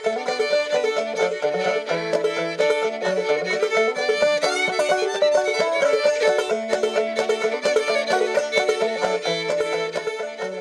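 Old-time string music: a clawhammer banjo frailing a steady rhythm alongside a bowed fiddle playing the melody.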